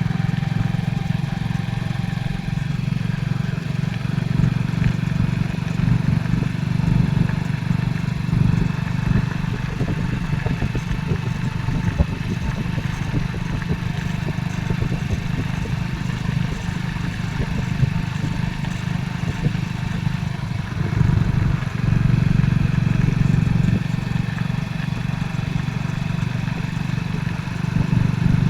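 Motorcycle engine running steadily under way, with constant rumbling road and wind noise.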